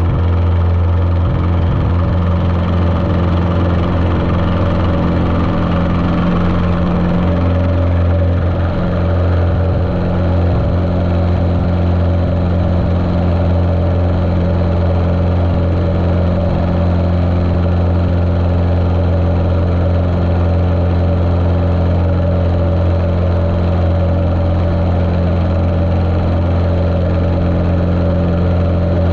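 Cessna 150's Continental O-200 four-cylinder air-cooled engine and propeller running steadily, heard muffled through a GoPro's waterproof case.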